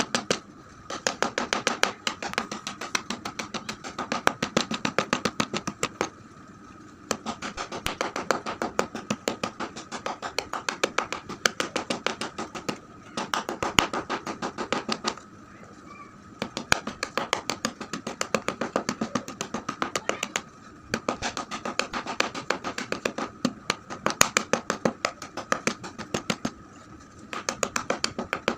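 Coloured chalk being crunched: rapid crisp crunches, several a second, in runs of a few seconds broken by short pauses.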